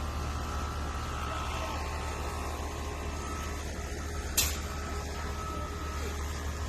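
Steady low electrical hum with faint room noise, broken by one sharp click a little over four seconds in.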